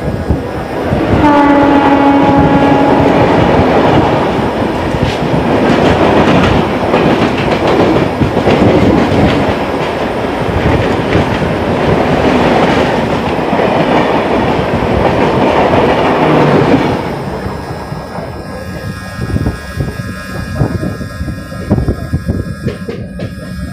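A train horn sounds for about two seconds as an oncoming train hauled by an electric locomotive meets the moving local train. The passing train then rushes past on the adjacent track with loud wheel and air noise, which cuts off about 17 seconds in. What remains is the quieter running of the local train, its wheels clicking over rail joints.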